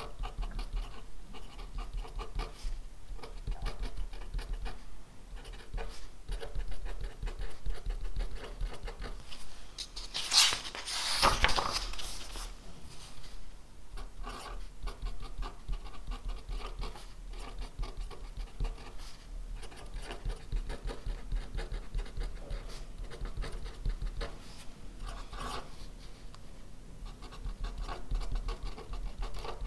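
Writing on paper by hand: quick, light scratching strokes that go on with short pauses. A louder scratching burst comes about ten to twelve seconds in.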